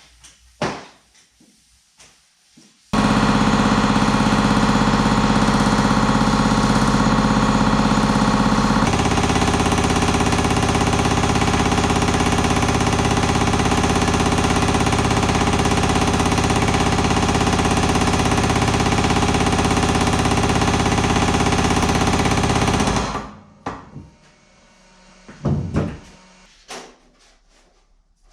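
Power hammer running steadily, rapidly striking a sheet-metal patch panel to shape it. It starts about three seconds in, changes pitch about nine seconds in, and stops a few seconds before the end. A few knocks and handling sounds come around it.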